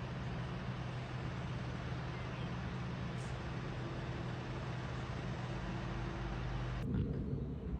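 Large mining excavator running with a steady low engine drone under a broad hiss. About seven seconds in, the sound changes abruptly: the hiss drops away and leaves a rougher low rumble.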